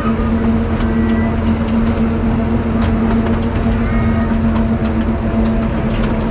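Akasawa Forest Railway's small diesel-hauled train running at a steady pace: a constant engine drone and rumble with scattered clicks from the rails.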